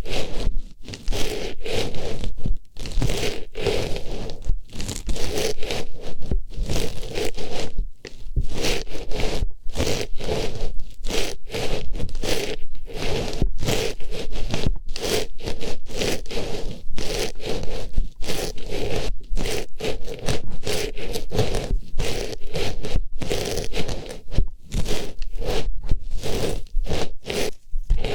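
Artificial flower pushed into and rubbed around an ear: close, dense scraping and rustling in quick, irregular strokes with brief gaps between them.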